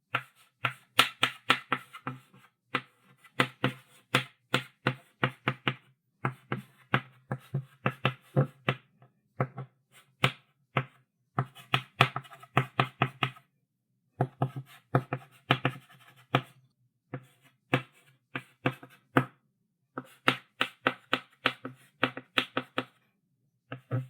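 Chalk writing on a blackboard: quick, sharp tapping strokes of the chalk, several a second, in runs broken by short pauses.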